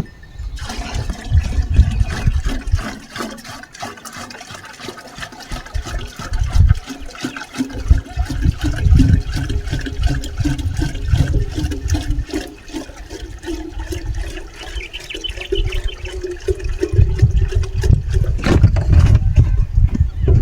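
Water pouring into a container to water the garden, with a hollow tone that rises slowly as the container fills and then stops a few seconds before the end. Low rumbling runs underneath.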